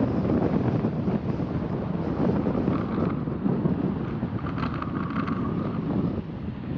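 Car on the move: steady road and engine noise with wind buffeting the microphone, and a faint higher-pitched sound around the middle.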